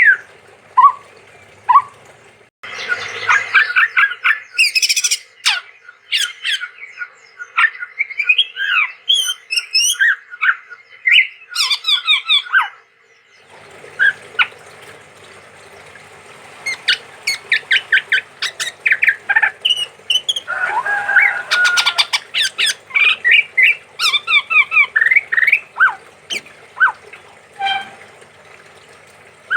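Male chestnut-rumped babbler (tepus tunggir merah) singing a varied song of rapid, short notes in quick runs, with a brief pause about halfway through.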